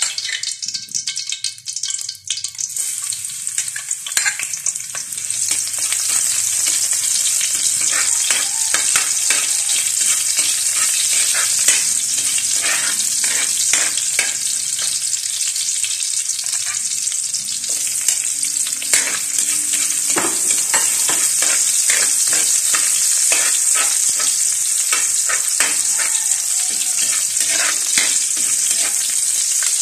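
Chopped garlic and onion sizzling steadily in hot oil in a wok, with a spatula repeatedly scraping and tapping against the pan as they are stirred. The sizzle sets in about two seconds in, as the garlic goes into the oil.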